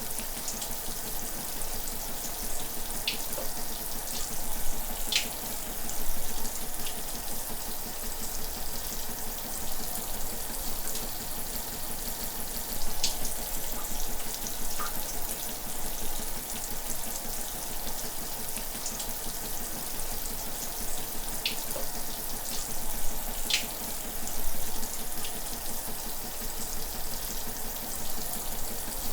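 Shower running: a steady hiss of falling water spray, with a few sharper splashes of drops here and there.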